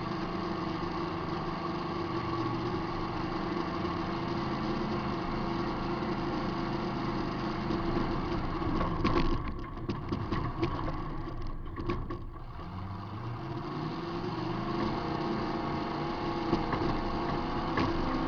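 Demolition derby car's engine running steadily, heard from inside the car. About halfway through the engine sound briefly drops away, with a few knocks, before picking back up.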